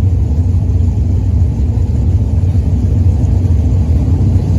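Pro-class race trucks' engines running together as the field circles before the start, a steady low rumble.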